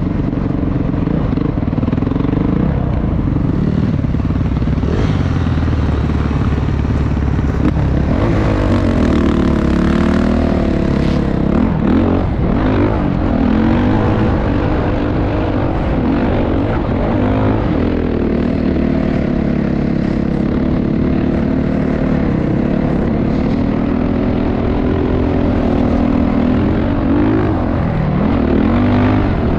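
Motocross bike engine running hard, its pitch repeatedly rising and falling as the throttle is opened and closed and the gears change, over a steady rushing noise.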